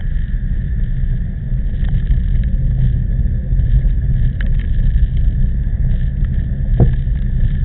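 Wind buffeting the microphone of a camera on a moving bicycle: a heavy, steady low rumble, with a few light clicks and knocks, one sharper near the end.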